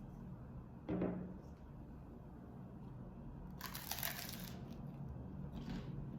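Quiet household handling sounds over a low hum: a single short knock about a second in, then a brief rustle or scrape a few seconds later and a few faint ticks.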